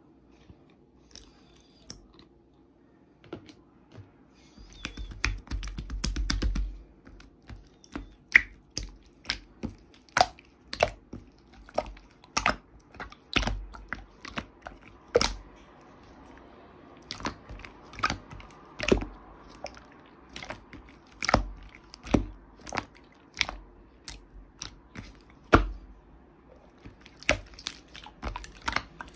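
Slime being squeezed and pressed by hand, giving sharp clicks and pops at irregular intervals, with a dense run of crackling about five to seven seconds in.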